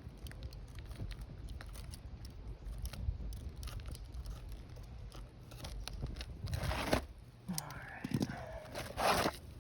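Asphalt roofing shingle scraping and crinkling as it is cut and worked into place, with many small clicks and two louder rasping scrapes near the end. Low wind rumble on the microphone underneath.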